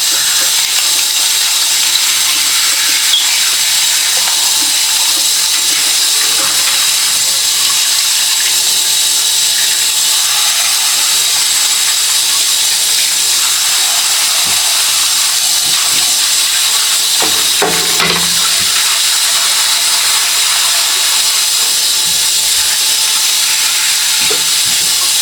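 A handheld shower sprayer running steadily as a continuous hiss, spraying water into the roller housing of a wet/dry floor-cleaner head to rinse out hair.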